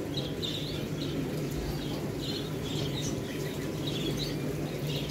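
Small cage birds chirping now and then, short high chirps every second or so, over a steady low hum.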